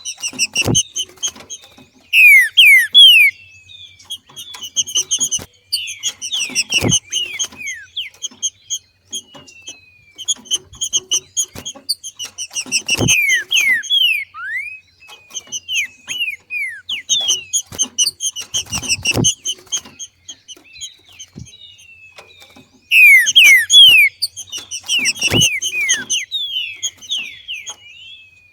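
Green-winged saltator (trinca-ferro) calling: rapid runs of sharp chirps and downslurred notes, coming in repeated bouts that are loudest about two seconds in and again near the end. A low thump sounds roughly every six seconds.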